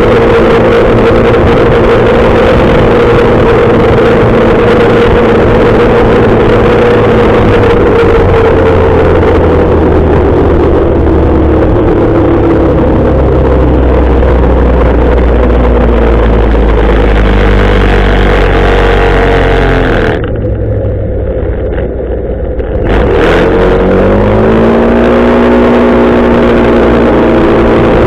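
Motorcycle engine running under a loud rush of wind while riding. The engine pitch falls slowly as it slows. Near the end the wind rush drops away for a few seconds, then the engine pitch rises as it speeds up again.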